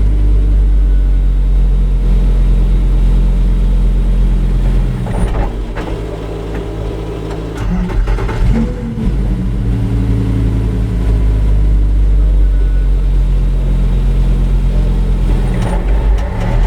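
Lamborghini Huracán race car's V10 engine running hard on track, holding steady pitches between gear changes. It eases off about five seconds in and pulls strongly again around eight seconds. There is another brief dip near the end.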